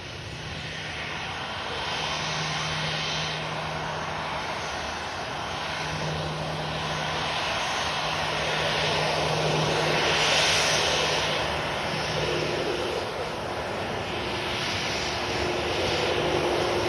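Boeing 737-8 jet engines (CFM LEAP-1B turbofans) running through a landing: continuous broad noise with a steady low hum. The noise swells about ten seconds in and again near the end.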